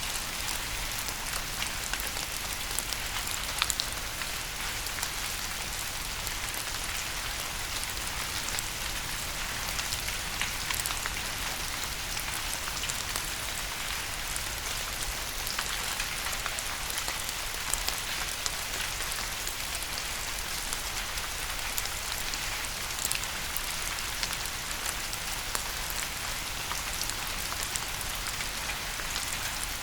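Steady rain falling on a surface: an even hiss dotted with many sharp ticks of single drops.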